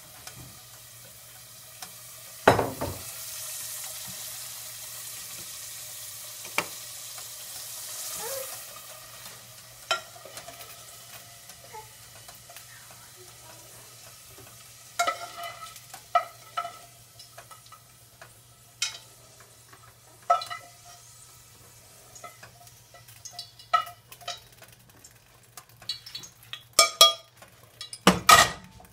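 Potatoes frying in hot oil with a sizzle, strongest in the first third. A loud knock comes about two and a half seconds in, then scattered clinks and knocks of a utensil against the pan that come thick and fast near the end, over a faint steady low hum.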